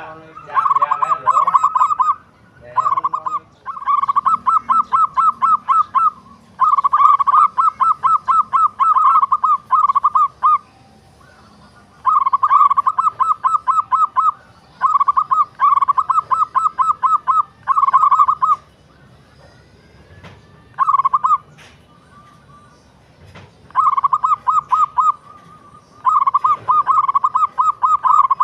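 Zebra dove (local perkutut) cooing: bouts of rapid, evenly pulsed notes at a steady pitch, each bout lasting from under a second to about four seconds, with short pauses between.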